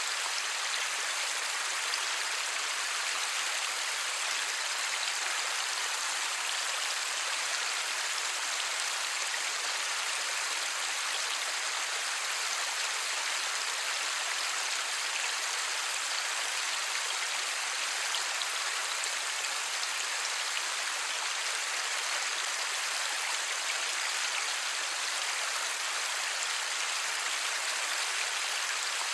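Light rain falling steadily: an even hiss flecked with fine drop patter, with no thunder.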